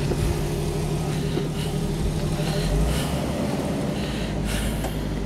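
Jeep Wrangler engine running steadily as the Jeep crawls slowly over rocks.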